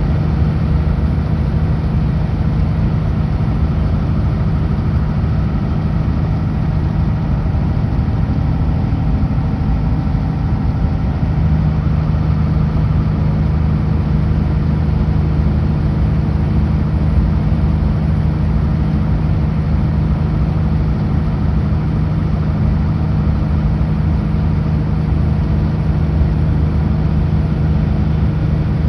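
Kenworth W900L semi truck's diesel engine running steadily, a constant low drone that grows a little fuller about eleven seconds in.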